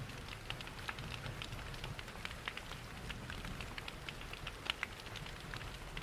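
Steady rain mixed with the crackle of a wood fire: many small scattered ticks and pops over a low, even rushing rumble of falling water.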